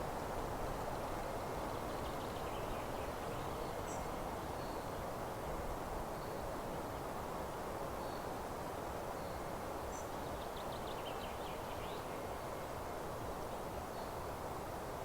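Meadow ambience: a steady hiss with faint, scattered high bird chirps, and a short rapid bird trill about ten seconds in.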